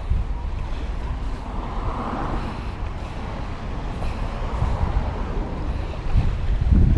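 Wind buffeting the microphone, a steady rumbling noise that surges stronger near the end.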